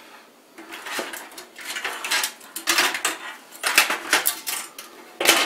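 Irregular plastic clicks and rattling from a PC power supply's 20+4-pin ATX main power cable being handled, as its 4-pin section is fitted onto the 20-pin connector. The loudest click comes near the end.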